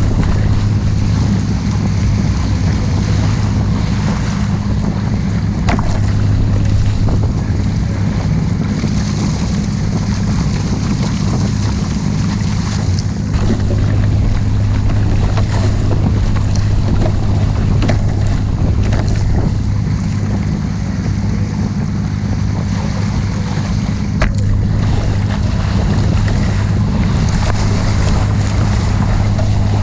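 Motorboat engine running at a steady speed, a constant low hum, with water rushing and wind buffeting the microphone.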